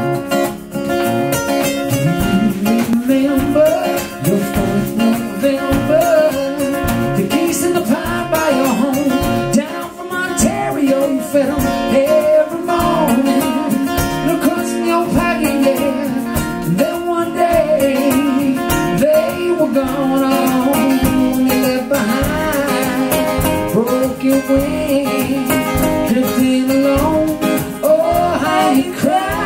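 Live acoustic folk-band music: guitar playing, with a singing voice carrying a wavering melody over it.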